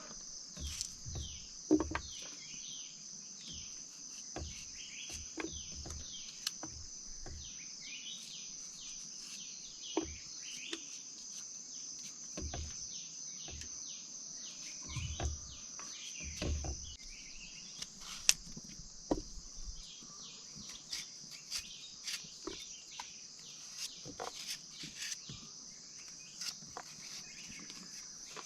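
Insects droning steadily at a high pitch, with many short falling chirps from birds over the top. Scattered short knocks and clicks come through now and then.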